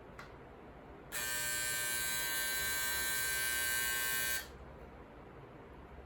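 An electric shaver switched on, buzzing steadily for about three seconds and then switched off, showing that it still works.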